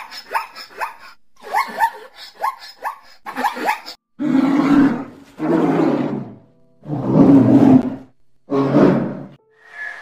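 Zebra's yelping barks, a quick series of short rising-and-falling calls, followed from about four seconds in by a bear roaring four times, each roar about a second long and louder than the barks.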